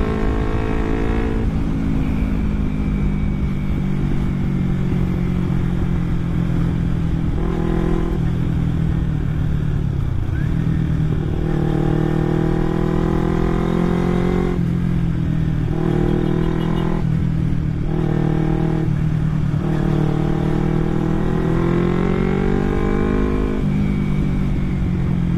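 Kawasaki Ninja 250 carburetted parallel-twin engine through an aftermarket Akrapovic exhaust (a Purbalingga-made copy), ridden at full throttle. The pitch climbs through each gear and drops at several upshifts.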